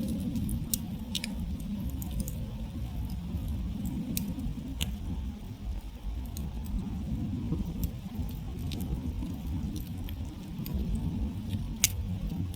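Wood campfire burned down to glowing embers, crackling with scattered sharp pops over a steady low rumble. The loudest pop comes near the end.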